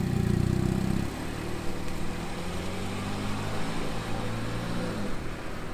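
A Mini Cooper S two-door hardtop's engine running, heard from behind its exhaust. It is loudest for about the first second, then quieter as the car drives away.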